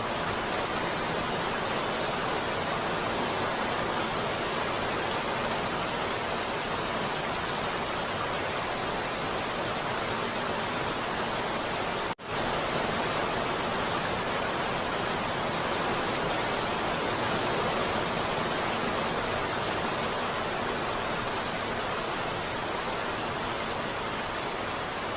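Heavy rain falling steadily, an even hiss with no thunder, broken by a brief near-silent gap about halfway through.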